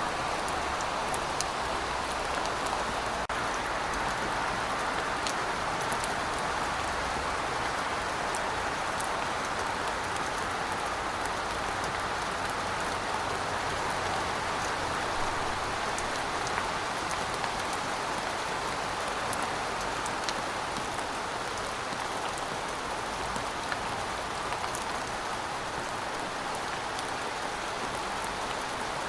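Heavy rain falling steadily, a dense even hiss with scattered individual drops ticking.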